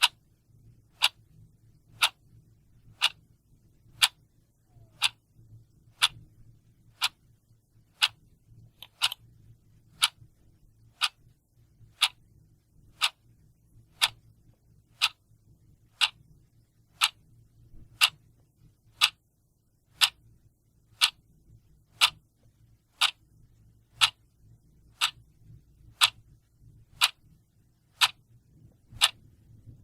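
A clock ticking steadily, one sharp tick each second.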